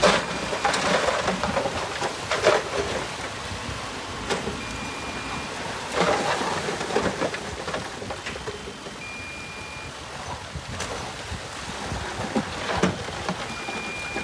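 Heavy earthmoving machinery working: a steady noisy running sound broken by irregular clanks and knocks. A short high steady beep sounds three times, about four seconds apart.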